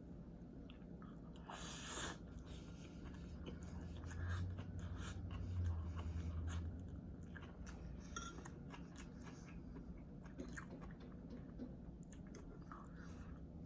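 Close-miked chewing of rice noodles (pancit bihon), with many small wet mouth clicks, and a louder brief rustle about two seconds in.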